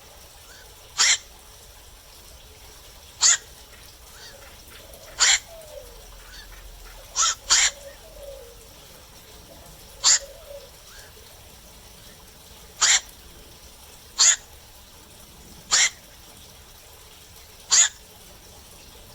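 Black-crowned night heron giving short, loud "kwok" calls, one every two seconds or so, with a quick double call about seven seconds in.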